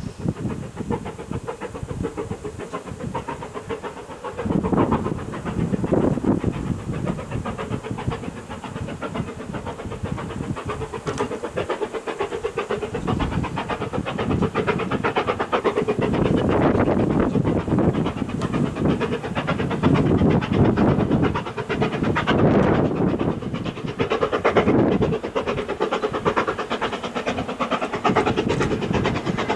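Steam locomotive working a train along the line, its exhaust beating rapidly and steadily with hiss, growing louder about halfway through as it draws nearer.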